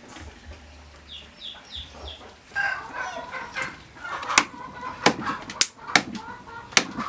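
Chickens clucking, with four short high cheeps about a second in. Several sharp knocks come in the second half.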